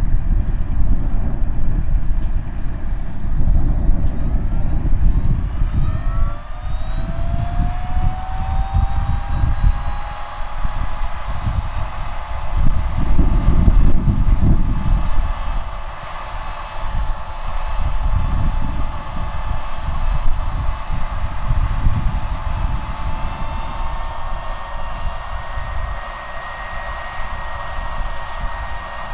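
Case IH Magnum 305 tractor running with a John Deere MaxEmerge planter: an uneven low rumble, with a whine that rises in pitch about six seconds in, then levels off and holds steady.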